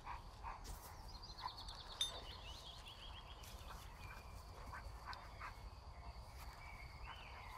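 Quiet outdoor ambience with a low rumble, over which a songbird sings a rapid trill of falling high notes lasting about two seconds, starting about a second in, and gives another short call near the end.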